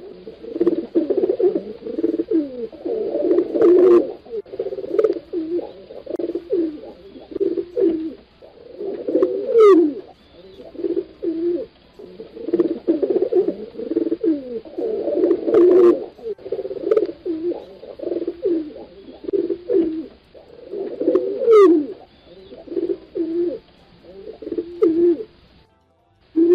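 Pigeons cooing, many low calls overlapping in a near-continuous run. Twice a short high note falls steeply. The sound drops out briefly near the end, then resumes.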